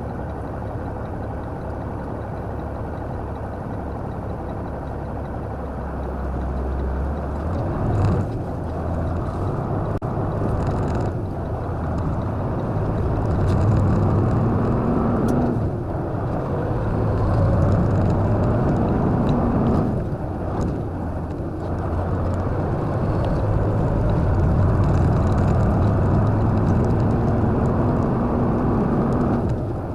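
A motor vehicle's engine running, its low hum swelling and easing several times over a steady rumble.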